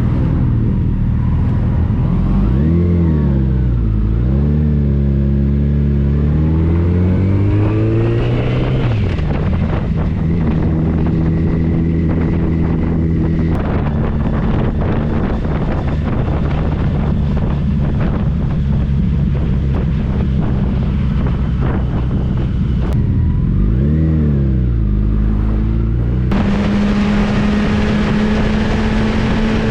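Motorcycle engine running on the road, its pitch dropping and climbing back twice and holding steady in between. Near the end the engine pitch steps up and a loud rushing hiss of wind joins it.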